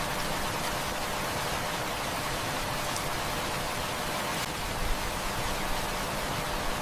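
Heavy rain falling in a steady, even hiss, with a few faint crackles from a wood fire.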